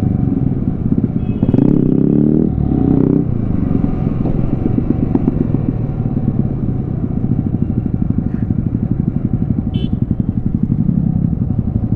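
Yamaha R15 sport bikes' single-cylinder 155 cc engines running hard in a drag race, loudest in the first few seconds, then a steady engine drone at speed.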